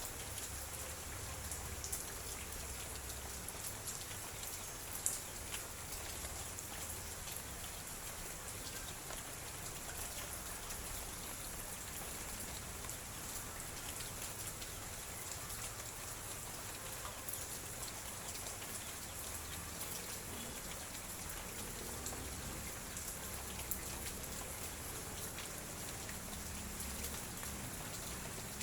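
Light drizzle falling, with scattered drops ticking on surfaces; one sharper tick about five seconds in.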